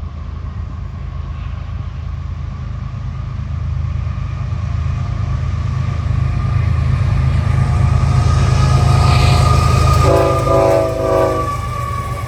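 Union Pacific intermodal freight train's diesel locomotives approaching with a low rumble that grows steadily louder. The locomotive horn sounds briefly about ten seconds in.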